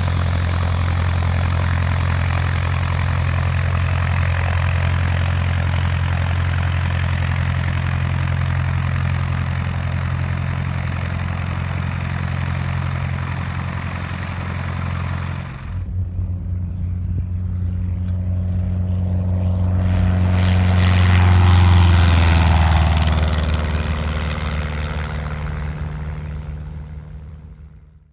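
A 1966 Cessna 150's four-cylinder Continental O-200 engine and propeller running steadily and loud. After a sudden change about two-thirds of the way in, the airplane's drone swells, drops in pitch as it passes, and fades away.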